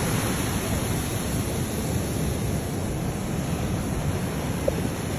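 Steady rushing noise of surf breaking on the shore.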